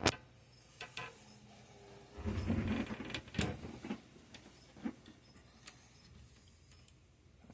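Handling noises: a sharp click at the start, a few lighter clicks, then about a second of rustling and knocking about two seconds in, as things are moved around at the enclosure.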